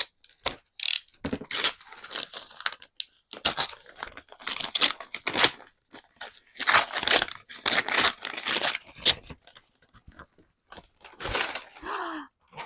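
Paper packaging being torn open and crumpled by hand: irregular rips and crunches, tough paper that is hard to tear through.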